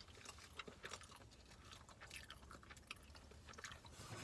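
Quiet chewing of soft steamed buns (siopao), with scattered small mouth clicks.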